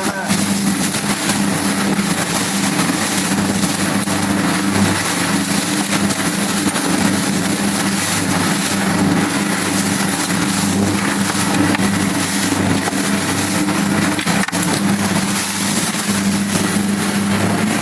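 Motorboat engine running at a steady pitch under loud, constant wind noise.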